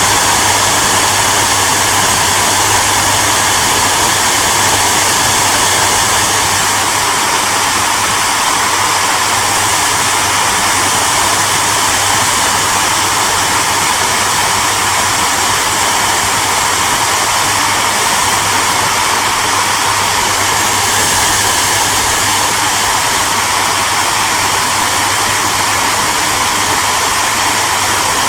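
Electric hairdryer running continuously: a steady, even rushing of fan and airflow with a constant low hum underneath.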